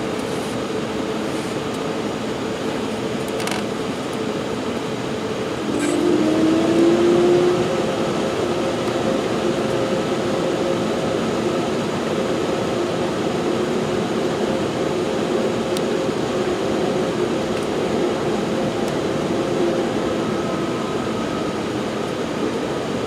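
Cabin noise inside an Embraer 195-E2 with its Pratt & Whitney PW1900G geared turbofans at low thrust: a steady rush with low humming engine tones. About six seconds in, one tone rises slightly and gets louder for a couple of seconds, then settles.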